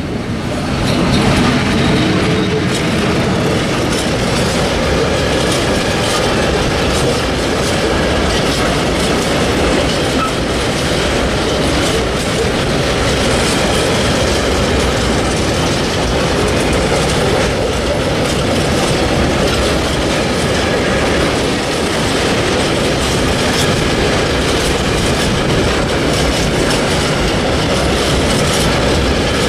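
A freight train of tank wagons rolling past close by behind an electric locomotive: a steady rumble of steel wheels on rail with clickety-clack over the rail joints. It gets louder about a second in and then holds steady.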